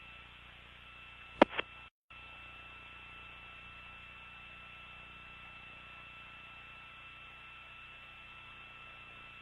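Hiss of an open mission-control radio voice loop, with two steady high tones through it. Two sharp clicks come about a second and a half in, followed by a brief dropout to silence.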